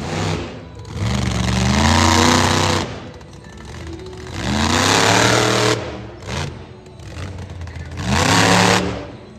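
Monster truck engine revved hard three times, the pitch climbing with each rev and dropping away after a second or two.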